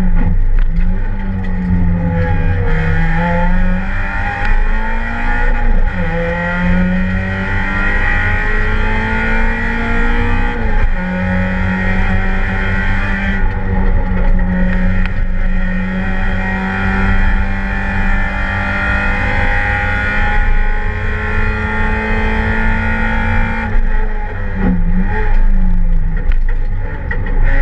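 Race car engine heard from inside the cockpit, run hard through the gears. The pitch climbs and drops with each change, falls sharply about eleven seconds in, holds steady for a long stretch, then dips and climbs again near the end.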